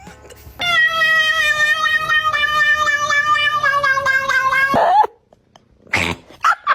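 Cat giving one long, loud, drawn-out yowl lasting about four seconds and sinking slowly in pitch, followed near the end by two short, sharp cries.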